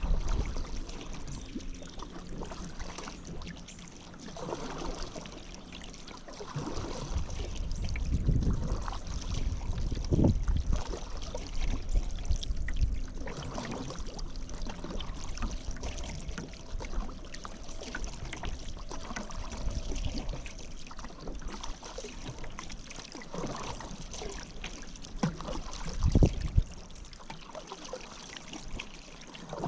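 Paddle strokes through river water, the blade dipping and pulling with splashing and water trickling off it, at an uneven pace of a stroke every second or two.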